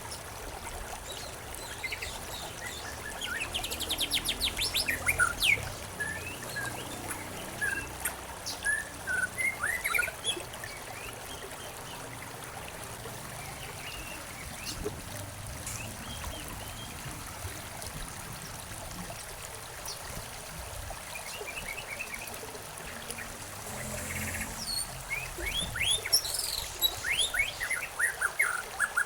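Several songbirds chirping and trilling over a steady trickle of running water, with two busier bursts of calls: a few seconds in and again near the end.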